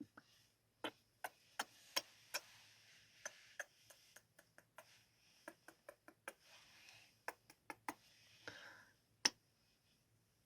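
Soft kissing sounds: an irregular string of sharp lip smacks, one to three a second, with a faint breathy hiss between them and the sharpest smack near the end.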